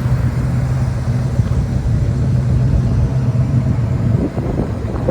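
The Chevelle SS's 396 big-block V8 running steadily under way, a low engine drone over road noise; the drone lets up about four seconds in.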